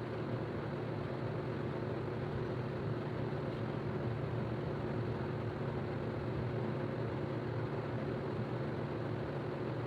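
Steady, unbroken low hum with a faint hiss of running machinery, with a faint steady tone above the hum.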